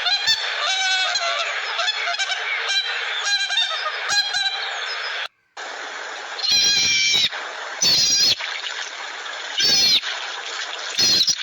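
Honking animal calls. A dense run of overlapping calls stops abruptly about five seconds in. After a short gap, four loud, short honks follow about a second or more apart.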